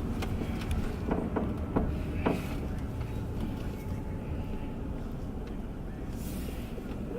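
Car running slowly, heard from inside the cabin: a steady low engine and road rumble with a few scattered light clicks and knocks, and two short hisses.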